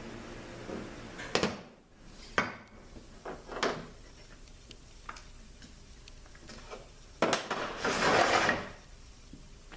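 Metal automatic-transmission parts being handled and set down on a workbench: several sharp clinks and knocks, then a louder scraping or rustling sound lasting about a second and a half near the end.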